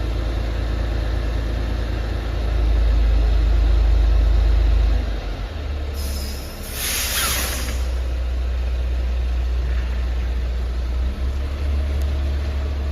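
Semi-trailer truck's diesel engine running with a deep rumble that swells for a couple of seconds, then a sharp hiss of compressed air from the air brakes about six seconds in.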